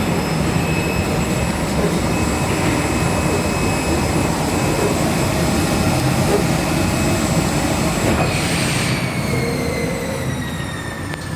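Snowboard-topsheet CNC cutter running through a test cut, a steady mechanical noise with a high whine. About eight seconds in the noise eases and the whine starts falling in pitch as a motor winds down.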